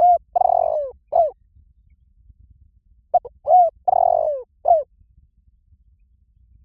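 Spotted dove cooing: two phrases about three seconds apart, each made of short coos, a longer drawn-out coo and a falling final note.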